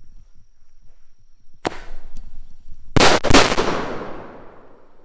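Double-shot salute firework going off: one sharp bang, then about a second and a half later two very loud bangs a fraction of a second apart, which ring out and fade.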